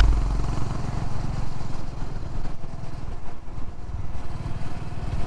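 Honda CB350 H'ness motorcycle's single-cylinder engine running steadily while riding, a low, even thudding.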